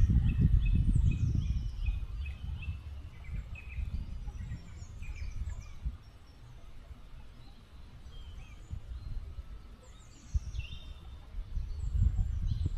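Small birds chirping and twittering at intervals over a low rumbling noise that is strongest at the start and again near the end.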